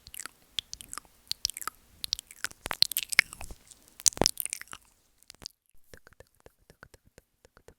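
Close-miked ASMR mouth sounds: wet lip smacks, tongue clicks and licking and nibbling on the microphone in quick, irregular runs. After about five seconds they give way to fainter, sparser clicks.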